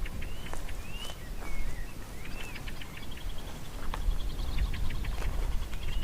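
Wild birds singing: short whistled notes that rise and fall during the first half, and a rapid trill of quick repeated notes through the second half, over a steady low rumble.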